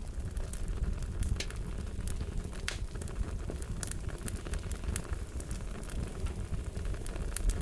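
Fire crackling: a steady low rumble of flames with scattered sharp pops and snaps.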